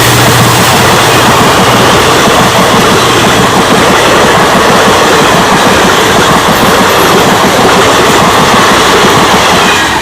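Express train of ICF passenger coaches rushing past at speed close by, with a loud, steady rush of wheels on rails.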